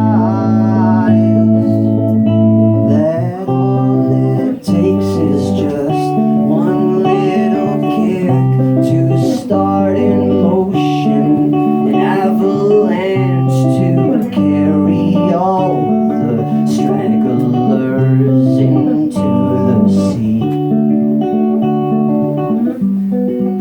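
Electric guitar instrumental break: sustained chords underneath, with a lead line above that bends and wavers in pitch.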